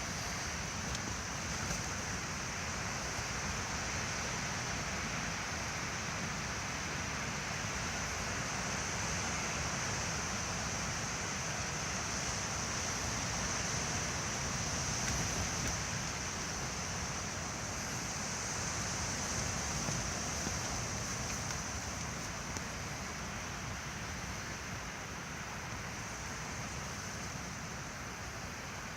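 Night wind blowing steadily, a continuous rushing noise that slowly swells and eases.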